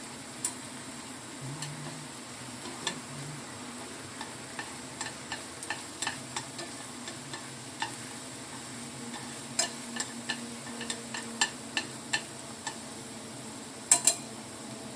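A utensil clicking and tapping irregularly against a pot or pan while stirring, over a steady hiss. The loudest is a quick double clack near the end.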